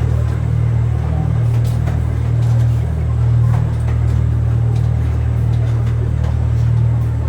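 Zoo train running along its track, heard from on board: a steady low engine drone that swells and eases slowly, with rolling rumble.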